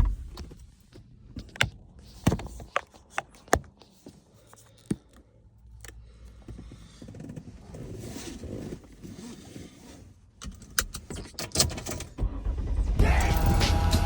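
A series of separate sharp clicks and knocks with a faint low hum between them; music with a beat comes in near the end.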